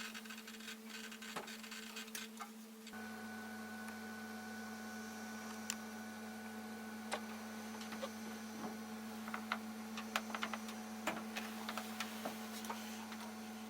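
Steady electrical hum, joined about three seconds in by a second, lower hum as another unit switches on, with scattered light clicks over it.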